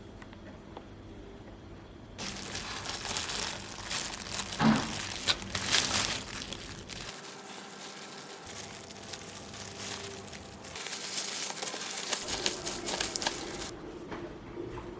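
Wrapping being crumpled and torn, a crackly rustle that starts about two seconds in and stops shortly before the end.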